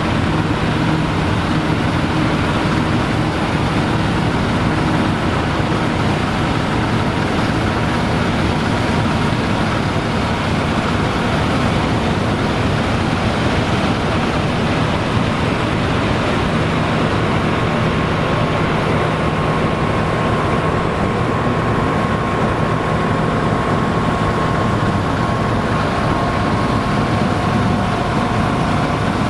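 Vintage farm machinery running steadily: a continuous diesel engine drone with mechanical noise. A thin whine comes up about halfway through and holds.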